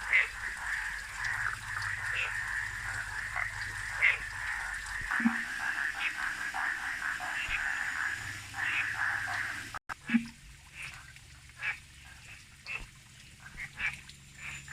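Frogs calling in short, repeated croaks over a steady high drone; the drone cuts off abruptly about ten seconds in, and the croaks carry on.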